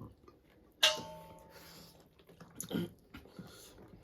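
A utensil striking a dish with one sharp clink about a second in, the dish ringing briefly and fading, then a shorter, softer sound near three seconds in.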